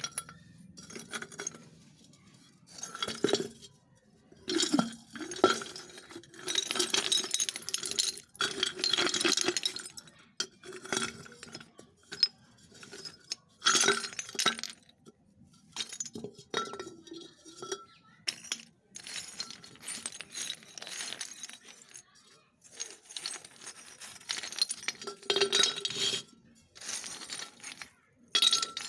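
Close-up crunching of dry baked clay (mitti) being bitten and chewed: irregular bursts of crisp, brittle crackling with short pauses between bites.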